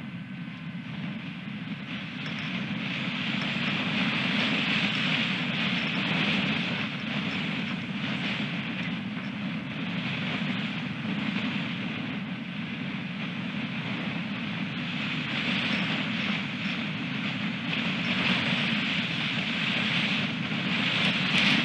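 Strong gusty wind rushing over the nest camera, a steady low rumble with a higher hiss that swells and eases in gusts every few seconds.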